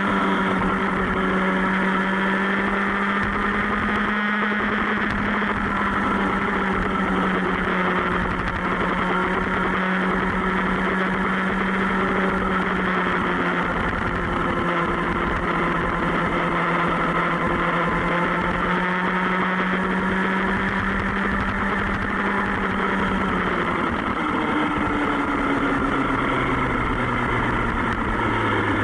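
Superbike engine running at a steady cruising pace, its note sinking slowly. About 24 seconds in the pitch falls away to a lower note as the bike slows.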